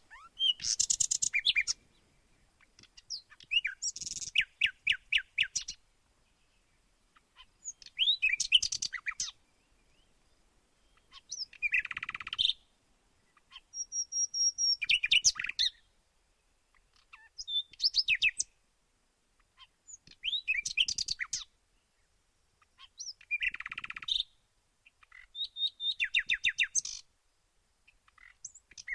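A songbird singing short, rapid, high-pitched trilled phrases, one every two to three seconds, with quiet gaps between them.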